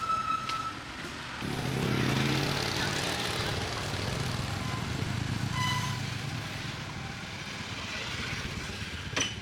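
A motor vehicle engine running, with a couple of short beeps, one near the start and one about halfway, and a sharp click near the end.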